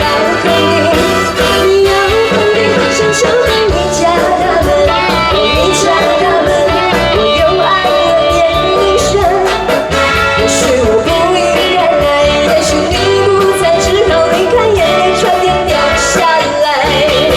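Live band music with a woman singing a Mandarin pop melody over it.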